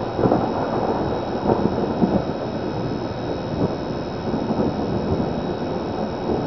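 Thunder rumbling, a steady low noise that swells and eases irregularly.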